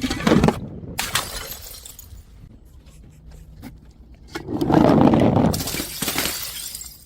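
Glass bottles smashing and shattering, with scattered clinks of pieces between the breaks. A longer, louder crash with ringing shards comes about four and a half seconds in.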